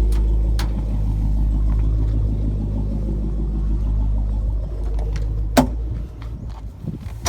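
Toyota Land Cruiser engine idling steadily on a cold start, with a few sharp clicks over it. The idle becomes quieter about six seconds in.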